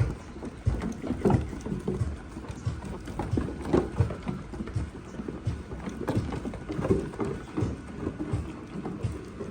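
Goats moving about, with irregular knocks and thuds of hooves.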